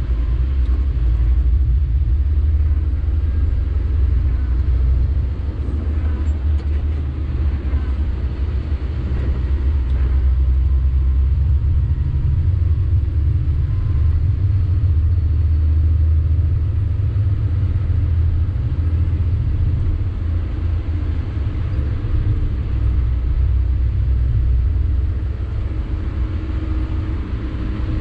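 Sany 6x4 dump truck's diesel engine running under way, a steady low rumble that stays even throughout.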